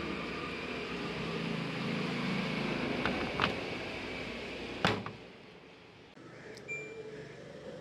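A few sharp clicks from an LG front-load washing machine's control panel as it is operated, then one short electronic beep, over a steady hum that fades out about five seconds in.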